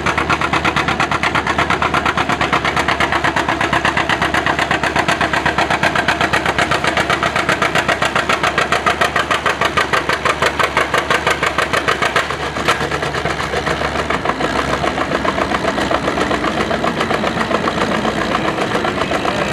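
Antique farm tractor engine running loudly with an even, rapid beat of firing pulses, easing off a little about twelve seconds in.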